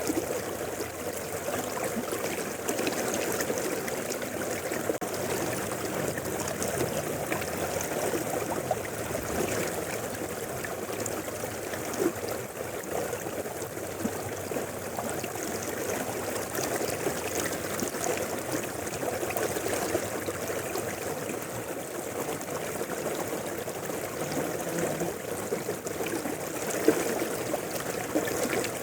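Mountain river flowing: a steady rush of water with many small splashes through it.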